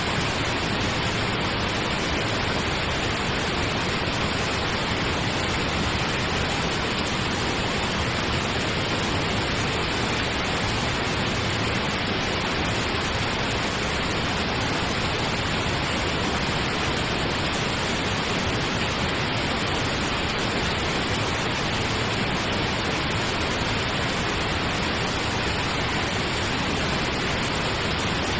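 Steady pink noise, an even, unchanging hiss with no pauses or changes.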